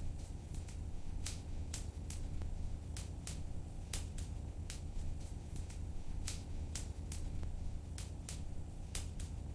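Wood fire burning in a fireplace: irregular sharp crackles and pops, about two a second, over a low steady rumble of the flames.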